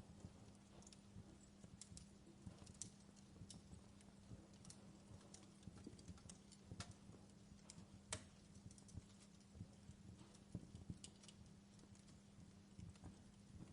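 Wood log fire in a fireplace crackling: scattered soft pops and snaps at an irregular pace, the sharpest about eight seconds in, over a faint steady hum.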